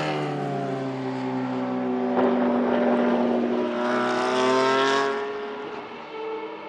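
Ferrari P80/C's twin-turbo V8 racing engine at full throttle on the track. The engine note breaks briefly about two seconds in, then rises in pitch as the car accelerates, and fades away after about five seconds.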